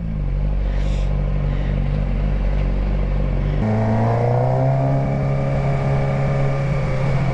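Motorcycle engine running while riding, with a steady engine note over wind noise. About three and a half seconds in the note changes abruptly, then rises and levels off as the bike pulls away.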